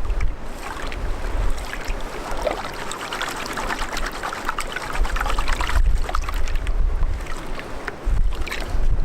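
Running stream water with a steady rush and scattered small clicks, while gusts of wind buffet the microphone on and off.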